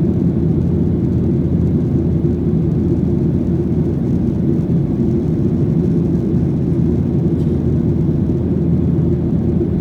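Steady rumble of a Boeing 737-800's CFM56-7B engines and airflow heard inside the passenger cabin, deep and unchanging in level.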